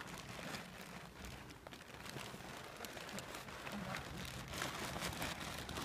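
Pop-up tent being handled and folded: its fabric rustling and crinkling in uneven bursts, with small crackles as the flexible frame is bent.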